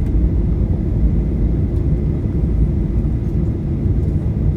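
Steady low rumble of a vehicle in motion, even throughout.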